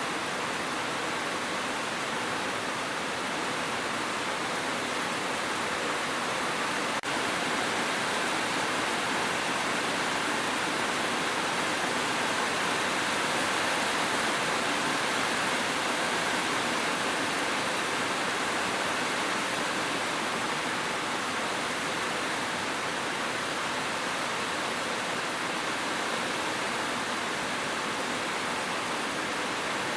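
Steady heavy rain, an even continuous hiss with no separate drops standing out, and a faint click about seven seconds in.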